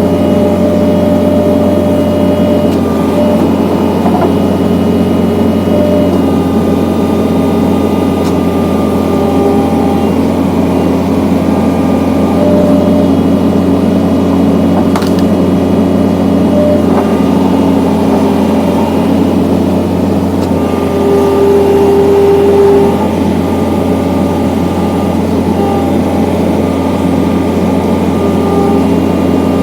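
John Deere skid steer's diesel engine running steadily, driving the hydraulic log splitter. It grows briefly louder about 21 seconds in.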